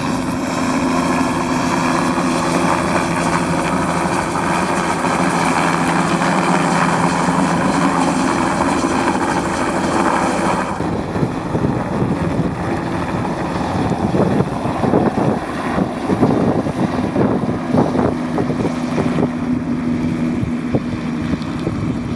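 Helicopter running, a steady engine and rotor hum with a broad rushing hiss. About halfway through the hiss drops away suddenly, leaving the lower hum with wind gusting on the microphone.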